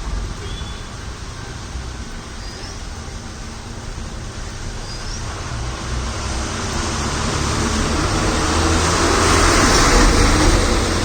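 Road traffic on a wet road: a steady low engine rumble, then a vehicle's tyres hissing through the rainwater as it approaches, growing louder to a peak about ten seconds in.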